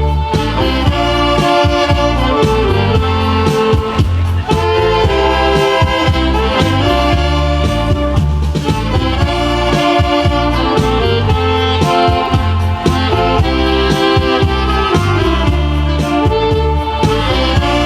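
Saxophone playing a melody over an accompaniment with a steady bass line.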